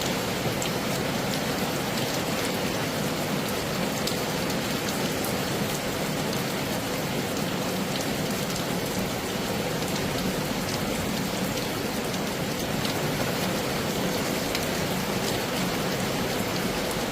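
Heavy rain falling steadily: a dense, even hiss of rain with scattered sharp ticks of single drops hitting a hard surface.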